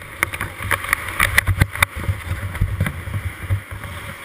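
A motocross bike's engine as an uneven low rumble under wind buffeting the microphone, with scattered short knocks.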